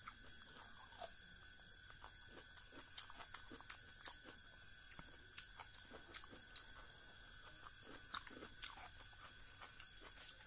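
Close-miked chewing of rice and fish curry eaten by hand: wet mouth clicks, lip smacks and small soft crunches at an irregular pace. A faint steady high whine runs underneath.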